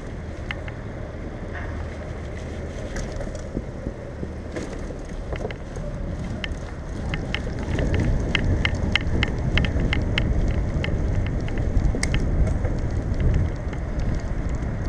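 Bicycle in motion with the rumble of tyres and wind on a bike-mounted camera, getting louder about halfway through as the ride speeds up or the surface roughens. Many light clicks and rattles run through it, coming a few times a second in the louder part.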